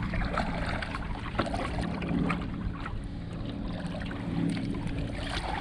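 Choppy sea water splashing and lapping against a kayak's hull, with a steady low rumble of wind on the microphone.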